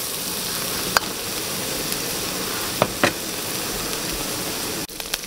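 Small shrimp frying in hot oil in a wok, a steady sizzle, with a few sharp clicks of a spatula stirring against the wok. The sizzle drops off abruptly near the end.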